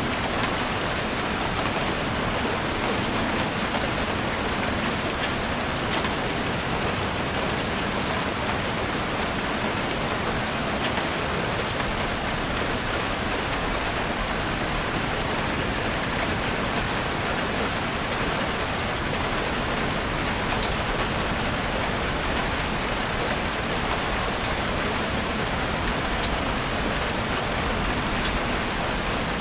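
Heavy rain falling steadily on a roof, a constant hiss dotted with the small ticks of individual drops.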